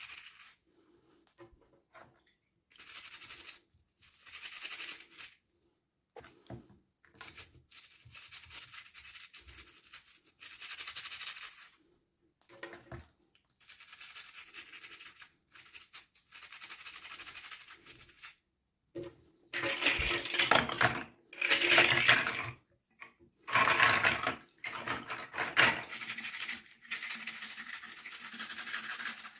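Plastic and paper packaging rustling and crinkling in short bursts with brief pauses, as a small toy is unwrapped. It grows louder about two-thirds of the way through.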